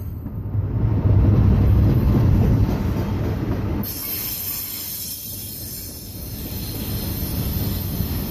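Flatcars of a long freight train carrying trailers rolling past at close range: a steady low rumble of wheels on rail, loudest in the first few seconds. About four seconds in, a high wheel squeal and hiss sets in over the rumble.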